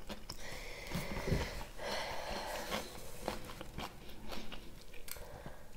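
Close-miked chewing: wet mouth sounds with many short clicks and crunches as a person eats.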